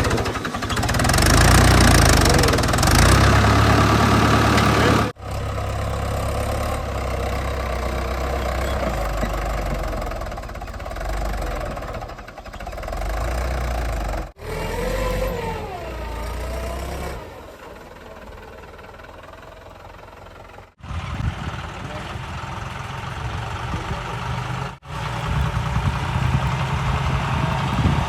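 Heavy diesel engines of earthmoving machines and trucks running, in several short clips that cut abruptly from one to the next. A brief wavering tone comes a little past the middle.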